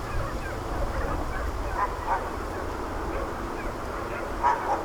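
Hunting dogs barking in the distance: a few short barks about two seconds in and again, louder, near the end, over a steady low rumble.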